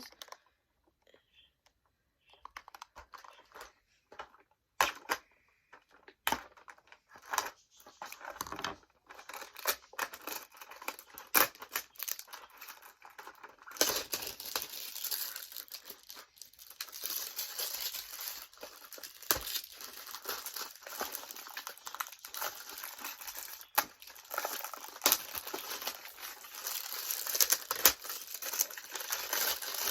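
Toy packaging being opened by hand: scattered clicks and rustles at first, then steady crinkling and tearing of plastic and card from about halfway on.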